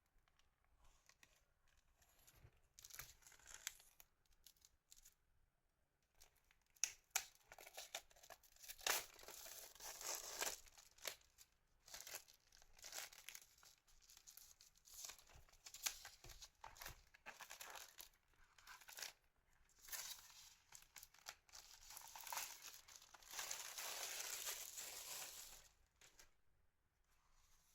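Packaging being crinkled and torn open in stretches of crackle lasting a second or two each, with a few sharp clicks mixed in.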